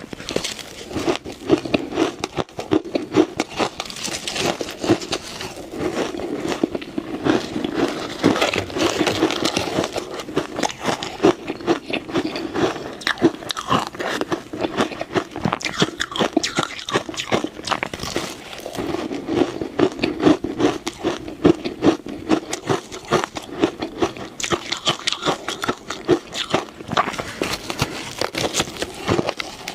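Ice being bitten and chewed close to the microphone: a continuous run of crunching and crackling as the pieces break between the teeth.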